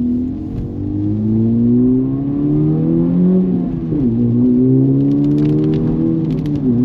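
Honda Civic Type R's 2.0-litre turbocharged four-cylinder accelerating hard through the gears: the revs climb, drop sharply at an upshift about four seconds in, climb again and drop at a second upshift near the end.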